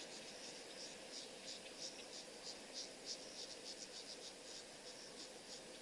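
Crickets chirping faintly, an irregular run of short high chirps several times a second, over a faint steady low hum.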